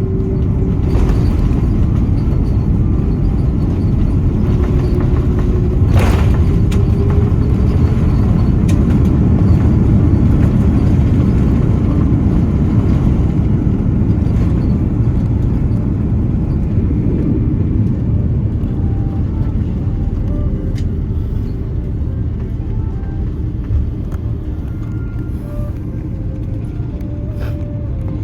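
Cabin noise of an Airbus A330-300 airliner: a loud, steady low rumble of engines and airflow that swells about six seconds in and then slowly eases off, typical of the aircraft slowing on the landing roll.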